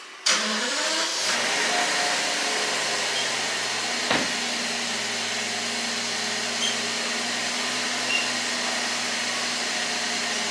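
Twin-turbo V12 engine started: it fires up, the revs rise briefly, then it settles into a steady, smooth idle. A single sharp tap about four seconds in.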